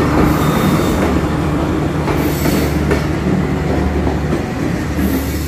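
Diesel-hauled train running past on the track: a steady engine drone under the noise of the wheels on the rails, with brief high wheel squeals about two seconds in and again near the end.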